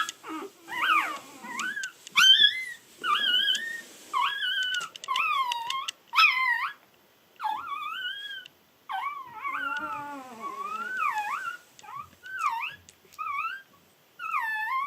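Newborn American Akita puppies, three days old, crying: a string of high, wavering squeals and whines, several of them overlapping near the middle. They cry because they are cold with their mother away.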